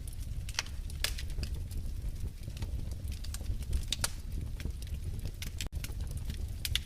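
Wood fire in a fireplace crackling: irregular sharp pops and snaps, several a second, over a steady low rumble of the burning logs.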